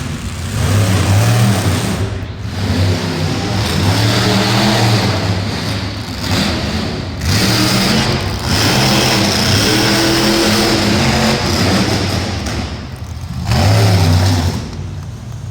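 Monster truck engines revving hard, the pitch rising and falling again and again with several loud surges.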